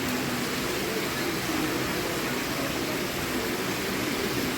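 Indoor fountain with water splashing and babbling steadily.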